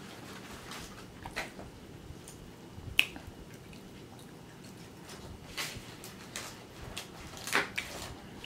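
Mouth chewing a bite of deep-fried crab ball: scattered soft wet clicks and lip smacks, with one sharper click about three seconds in and a few more near the end.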